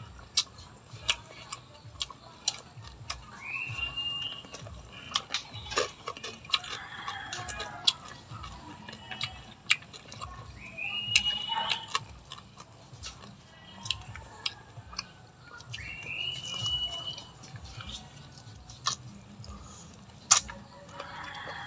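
Crunchy bites and chewing of fried chicken feet or chicharon: sharp separate crunches, about one every second or two. A bird gives a short rising call three times.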